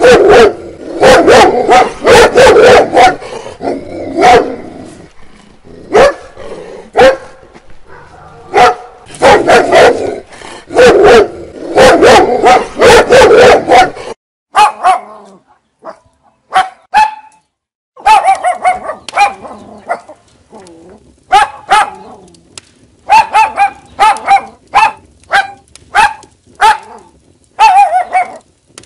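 A small dog barking in fast, loud runs. About halfway through the barking breaks off and, after a short quiet gap, comes back as sparser, higher-pitched yapping barks.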